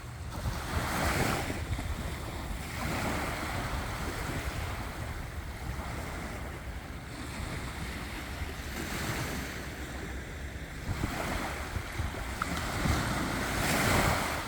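Sea waves breaking and washing on the shore, a swell of surf every few seconds, with a steady low rumble of wind on the microphone.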